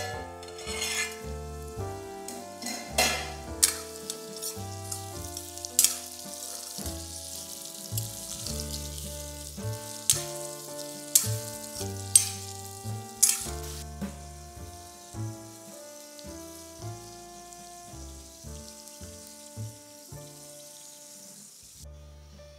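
Oil sizzling as gum berries and raw mango pieces fry in a steel kadai, with a steel spoon knocking and scraping against the pan several times as it stirs. Background music with piano-like notes plays throughout; the sizzle stops shortly before the end.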